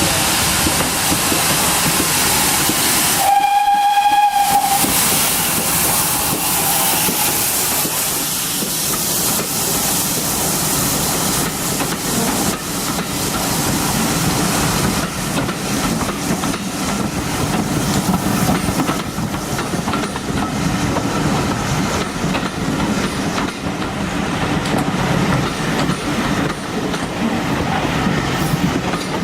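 GWR 5600 class 0-6-2T steam tank locomotive 6695 and its train running, with a short whistle blast about three seconds in. After the whistle there is steady rolling noise, a rumble and hiss with wheel clatter over the rail joints.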